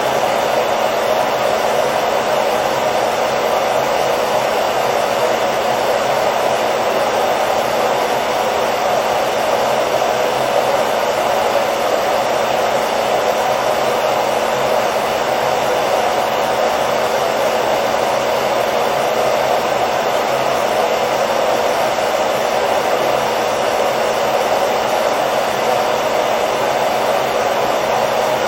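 Hair dryer running continuously at a steady speed: an even whooshing blow of air with a faint motor hum, unchanging throughout.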